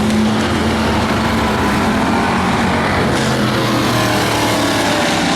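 Several demo race cars' engines running on the track together, a loud steady din of overlapping engine drone.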